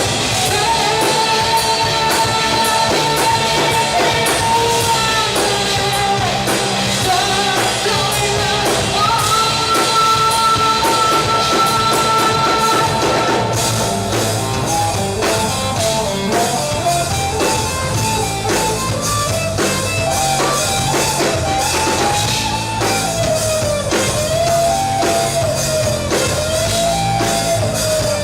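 Rock band playing live: electric guitar, bass and drum kit with singing.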